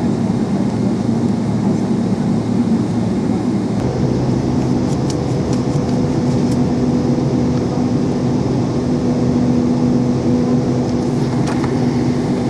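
Cabin noise inside a Boeing 777-300 heard from a window seat: a steady loud rumble of the jet engines and airframe. About four seconds in a steady hum tone joins it and holds, with a few light rattles.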